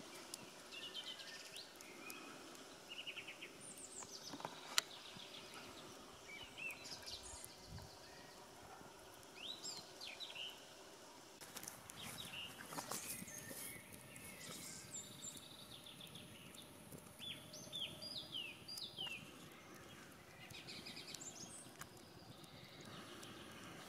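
Wild birds chirping and calling with short falling notes over a faint outdoor hiss, with one sharp click about five seconds in.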